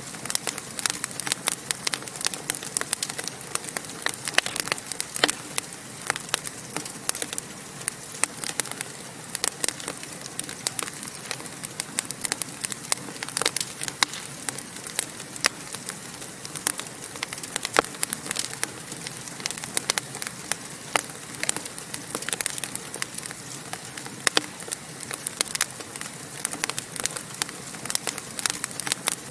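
Wood fire in a fireplace crackling steadily, with many sharp irregular pops over a soft hiss of burning.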